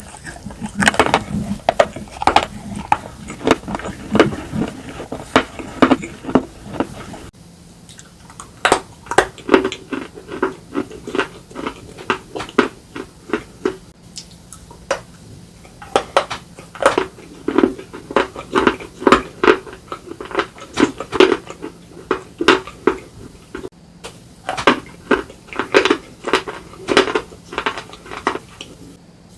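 Close-up crunching of slate pieces being bitten and chewed: a long run of quick, sharp crunches. About seven seconds in the background changes and a faint steady hum sits under the crunches.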